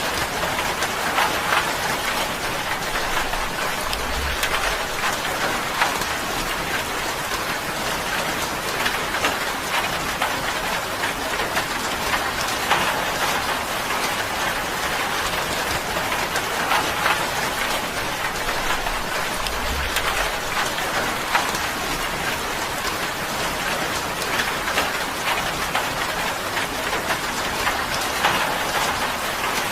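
Steady rain falling on a tin roof: a dense, even patter of drops on the metal.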